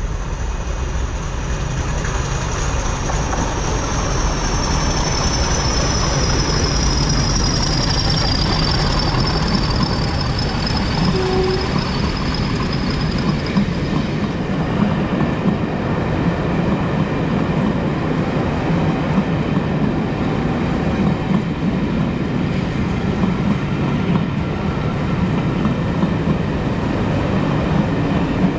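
A diesel-locomotive-hauled passenger train running past along the platform: a steady, loud rumble of engines and wheels on the rails. A high whistle falls slowly in pitch through the first half.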